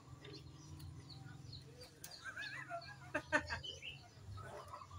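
Faint small-bird chirps and short warbling calls over a low steady hum, with two sharp knocks a little past three seconds in.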